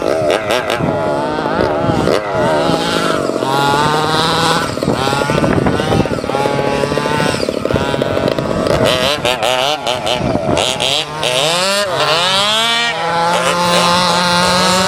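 27cc Zenoah two-stroke engine of a large-scale RC monster truck revving up and down again and again, settling into a steadier pitch near the end.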